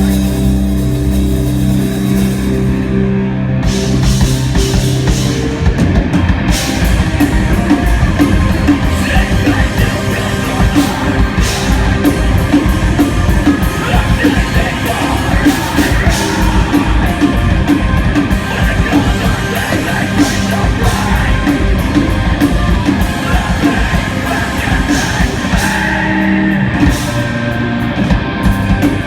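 Rock band playing loud: held chords for the first few seconds, then the drum kit comes in with crashing cymbals and the full band plays on.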